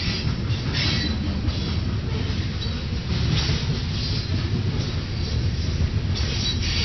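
Freight train of grain cars rolling past with a steady low rumble, with high wheel squeals coming and going several times.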